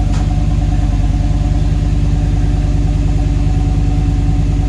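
Freshly rebuilt V10 engine idling steadily through its full custom exhaust, with an even, fast pulse.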